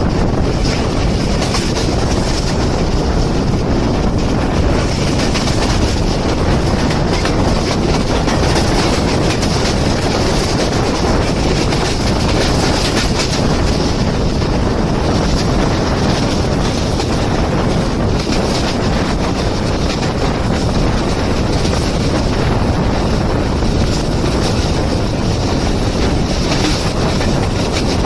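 Jaffar Express passenger train running through the station at speed: a steady loud rumble of coaches passing, with wheel clatter over the rail joints.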